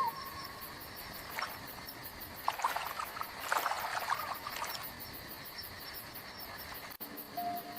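Faint insect chirring, a rapid even pulsing high in pitch, with a few light clicks and crackles through the middle.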